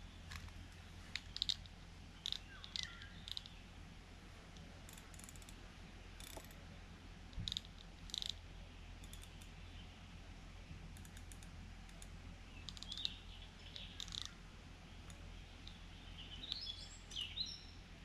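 Faint, scattered bird chirps over a low steady hum, with a short cluster of chirps near the end.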